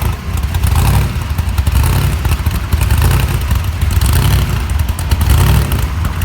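Classic car and hot rod engines rumbling as cars drive slowly past in a line, a heavy low exhaust note that swells and eases about once a second.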